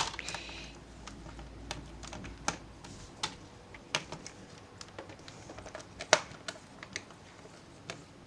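Irregular sharp clicks and taps of plastic laptop parts being handled during disassembly, with a short scrape at the very start.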